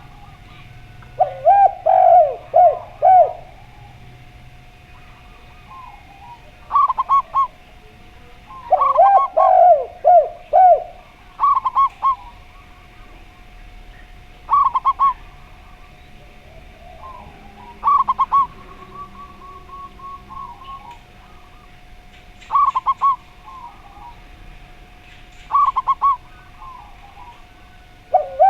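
Zebra dove and spotted dove calling in turn. Twice comes a loud phrase of four or five lower coo notes, and every few seconds a short, higher, rapidly trilled coo.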